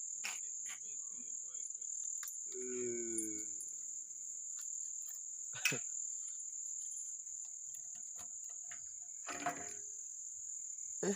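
Crickets chirring in one steady, unbroken high-pitched trill, with a short voice about three seconds in and a few brief clicks later on.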